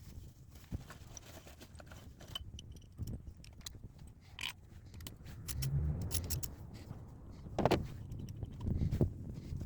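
Light metallic clinks and jingling with a few louder knocks, the sounds of parts or keys being handled; no engine is heard running.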